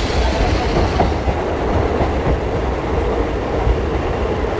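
Electric multiple-unit (MEMU) passenger train running into a station, heard from an open coach doorway: a steady rumble of the coach and its wheels on the rails, with a couple of faint clicks.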